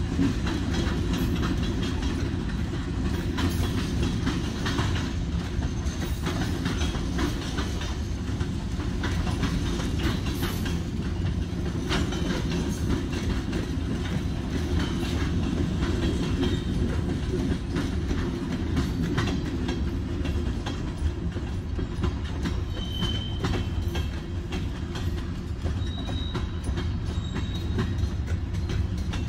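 Florida East Coast Railway freight train's covered hopper cars rolling past: a steady rumble of steel wheels on the rails with rapid clacking over the rail joints. A few brief high squeals come in the last third.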